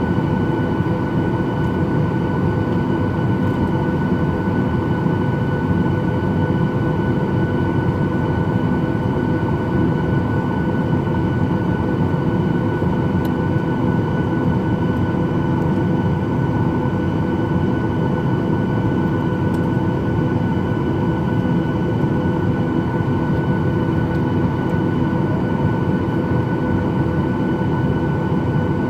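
Boeing 737-800's CFM56-7B jet engines running steadily, heard from inside the passenger cabin as a constant rumble with a steady whine over it.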